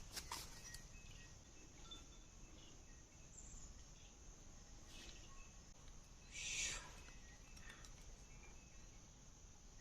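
Faint forest ambience: a steady high insect drone with scattered faint bird chirps. A few sharp clicks sound right at the start, and a brief louder rustle-like burst comes about six and a half seconds in.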